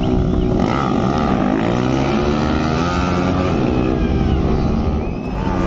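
Several superbike engines revving at once, their pitches rising and falling over each other.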